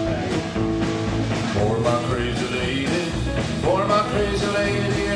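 Country-rock band playing an instrumental passage between vocal lines: guitar notes bending upward over bass and a steady drum beat.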